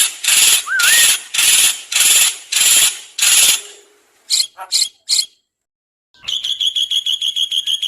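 Songbird calls from a bird-song training recording: about seven harsh rasping notes at roughly two a second, with a brief rising whistle among them. Then come three short chirps and a fast buzzy trill of about eight notes a second that stops abruptly near the end.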